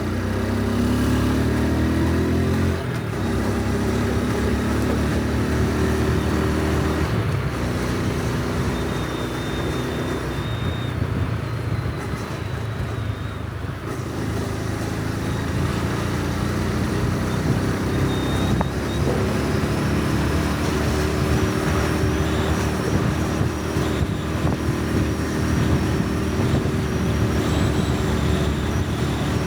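Honda Super Cub C125's single-cylinder four-stroke engine and exhaust while riding. The engine note climbs as the bike accelerates at the start, eases off about halfway through, and climbs again about two-thirds of the way in.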